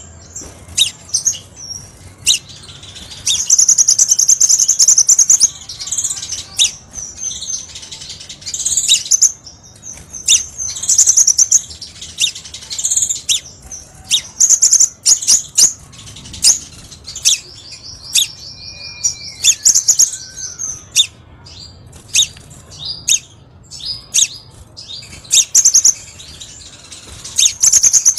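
Crimson sunbird song, loud and close: a stream of sharp, high chirps broken by fast, high trills lasting a second or two. The longest trills come a few seconds in and again past the middle.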